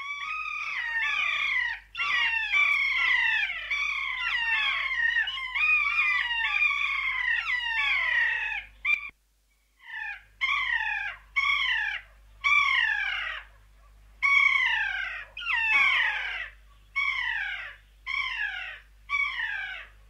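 Animal calls: many overlapping calls, each falling in pitch, then after a brief pause a string of separate falling calls, one about every second.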